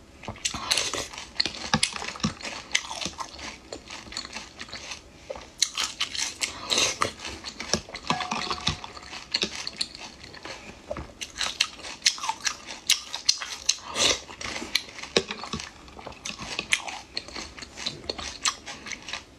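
Close-miked crunchy chewing and biting of pickled green vegetables eaten from a jar, a steady run of crisp crunches and wet mouth sounds.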